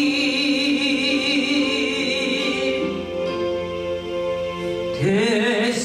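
Worship song sung in Korean with instrumental accompaniment: a long held note with vibrato that fades over the first few seconds, then the next phrase begins near the end.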